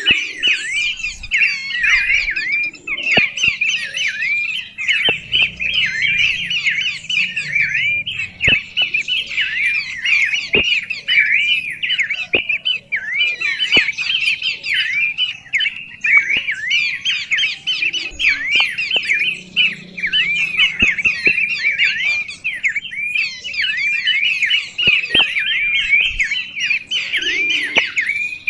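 Birds chattering without a break: a dense stream of short, quick calls that dip and rise in pitch, several a second and overlapping, with a few faint clicks now and then.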